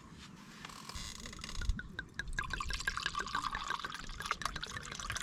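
Food cooking in a hot pot, sizzling and bubbling; a dense run of small pops and crackles sets in about two seconds in.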